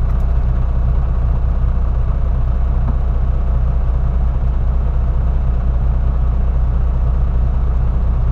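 Diesel semi-truck engine idling steadily while it warms up to operating temperature.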